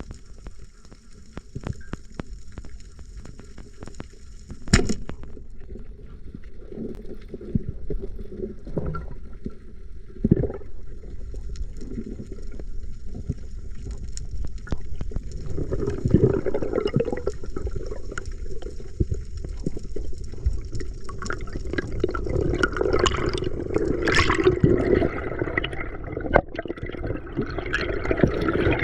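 Water sloshing and lapping, with a steady low rumble and scattered knocks; it grows louder and fuller about halfway through. A faint steady high whine sits over it for stretches.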